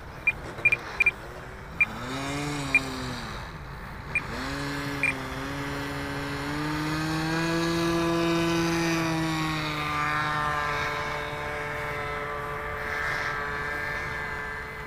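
Small two-stroke glow engine of an RC plane in flight, an O.S. .46 AX, its pitch rising and falling with throttle changes and shifting as the plane passes. A string of short, loud, high beeps comes in the first five seconds.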